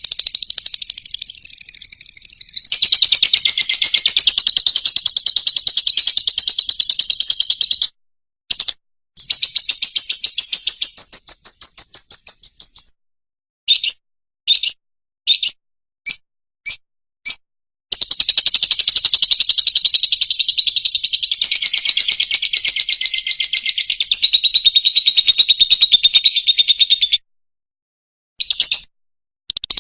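Fischer's lovebird singing: long runs of rapid, high-pitched chattering trills, broken in the middle by a string of short single chirps and a few brief pauses.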